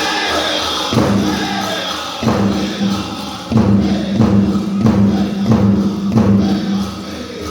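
Powwow drum group singing with a steady drumbeat for the prairie chicken dance; the beat sets in evenly about halfway through, a little under two strokes a second.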